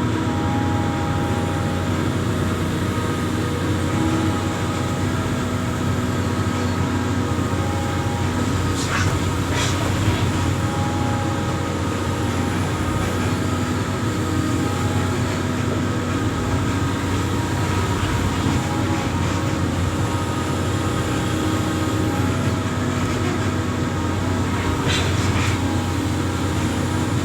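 Amphibious excavator's diesel engine running steadily under load, with a brief clank about nine seconds in and again near the end.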